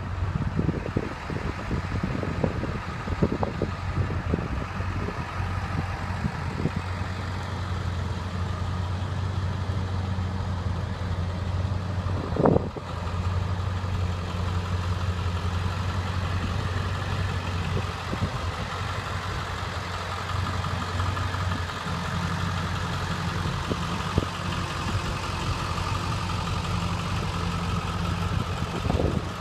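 2003 Ford F350's 7.3 Powerstroke V8 turbo diesel running steadily at idle, with one sharp knock about halfway through.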